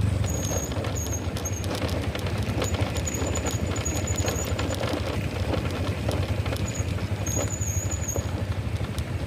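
Motorcycle riding along with its engine running as a steady low rumble, under a dense stream of small clicks and rattles. Short high-pitched squeaks come and go, twice in the first two seconds, then for a longer stretch from about three to four and a half seconds, and again around seven to eight seconds.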